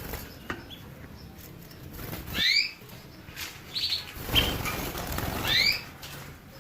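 Small songbird giving a short, rising call roughly every three seconds, with a few brief higher notes in between. A rustling burst, like wing flaps, comes about four seconds in.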